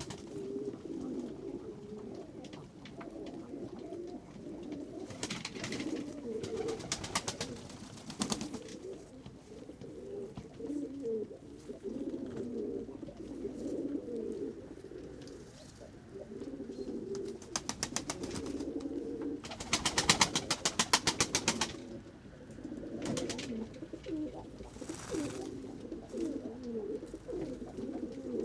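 A flock of pigeons cooing continuously in a low, overlapping murmur. Several times, a run of rapid, evenly spaced flaps cuts through, pigeons beating their wings to take off or land. The loudest run comes about two-thirds of the way through.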